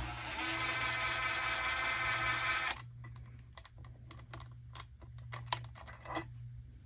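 Cordless screw gun running for almost three seconds and stopping suddenly, then a series of light clicks and taps as plastic dash trim parts are handled.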